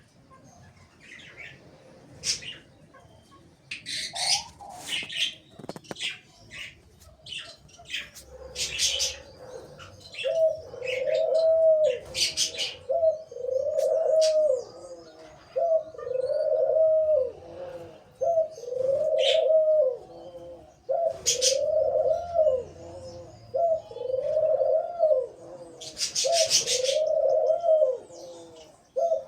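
A dove cooing over and over from about ten seconds in, each coo a rounded note about a second long repeating every second or two. Small birds chirp and tweet in short high calls throughout.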